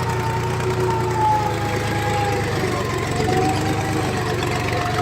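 HMT tractor's diesel engine running steadily with a low drone, and a higher wavering tone that slides down and back up over it.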